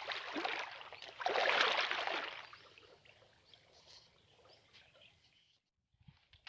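Water sloshing in two long swishes about a second each, as someone moves through shallow flooded swamp water, then faint water noise.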